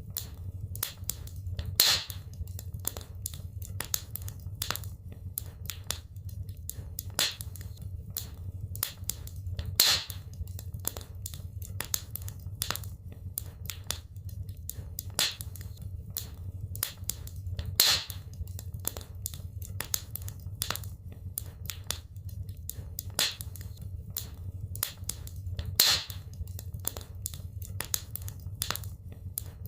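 Wood fire crackling in a fireplace: constant small snaps and ticks over a low steady rumble, with a louder pop about every eight seconds.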